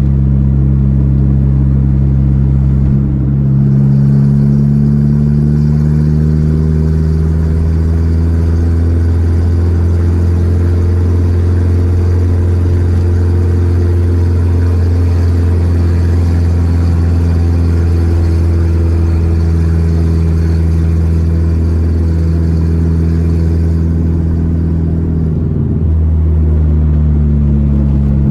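Volkswagen Gol G4's four-cylinder engine running as the car is driven. The engine note changes about three seconds in, then slowly rises and holds steady, and changes again near the end, as with gear changes while driving.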